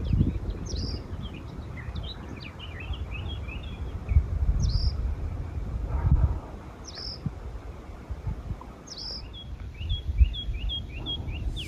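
Small birds chirping repeatedly in quick short notes, with a higher call about every couple of seconds, over a low uneven rumble.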